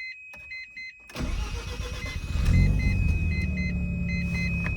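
A warning chime beeps repeatedly, then about a second in the 1994 Mazda RX-7's twin-turbo 13B rotary engine cranks briefly and catches on a warm start, rising in revs before settling into a steady idle.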